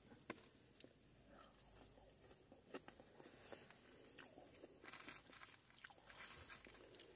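Faint chewing and crunching of battered chips: a few soft crunches and clicks that become more frequent in the second half.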